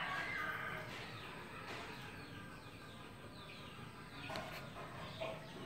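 Small birds chirping over and over in short, quickly falling notes, several overlapping.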